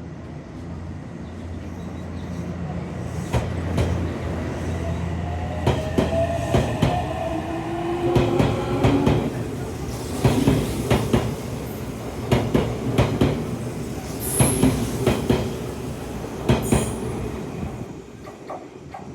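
A Seibu 8000 series electric train pulling out of the station. Its traction motors give a rising whine as it speeds up, then its wheels clatter in quick groups of clicks over rail joints and points as the cars roll past.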